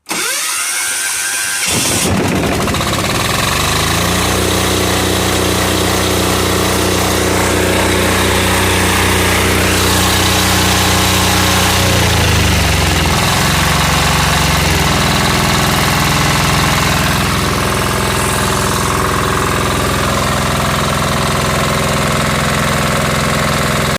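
Diesel generator engine running on waste motor oil, cold-started on a weak battery with the compression release held: the starter cranks for about two seconds, then the engine catches and runs steadily. About twelve seconds in its note shifts and settles into a different steady run.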